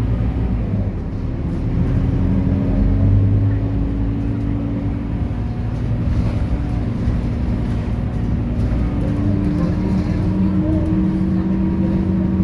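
Scania K230UB city bus's diesel engine running: a steady low drone whose pitch rises slightly about nine seconds in.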